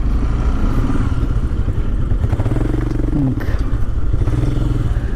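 Motorcycle engine running at low speed while the bike rolls in to park, with a pitched engine note that drops away about three seconds in.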